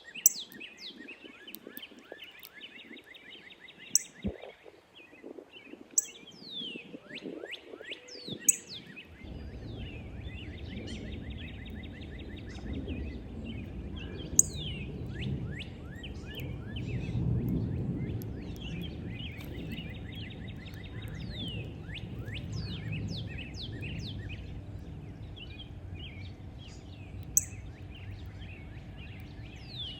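Several small birds chirping and trilling, with short falling chirps, repeated buzzy trills and now and then a single sharp, high chip. A low rumble comes in about nine seconds in and swells in the middle before settling.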